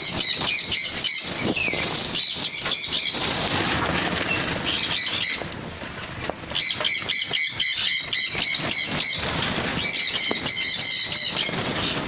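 Pin-tailed parrotfinches calling in bouts of rapid, high twittering notes, five bursts of one to three seconds each with short pauses between, over soft fluttering and rustling.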